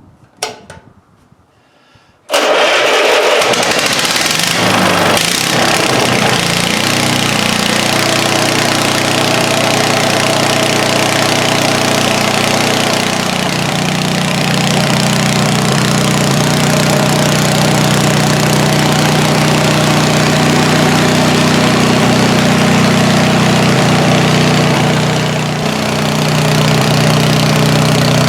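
Wisconsin THD two-cylinder engine, whose pistons rise together, firing up suddenly about two seconds in and then running steadily, with a brief dip in speed near the end. It has been brought back to running condition with new wiring, points and condenser, and sounds like it is running pretty good.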